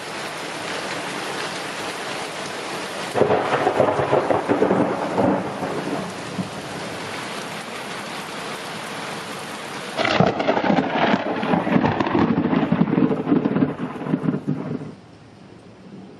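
Thunderstorm: steady heavy rain with two loud rolls of thunder, one about three seconds in and a longer one about ten seconds in. The rain drops to a quieter hiss near the end.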